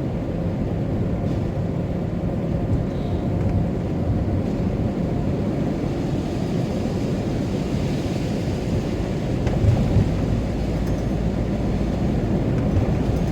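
Camper van on the move, heard from inside the cabin: a steady low rumble of road and engine noise.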